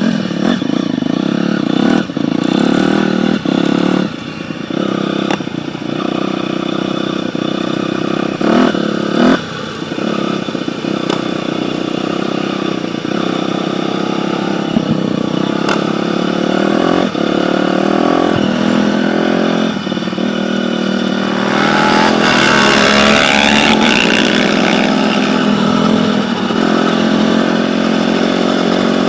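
Dirt bike engine running and being revved up and down repeatedly, with a louder, harsher stretch about three quarters of the way through.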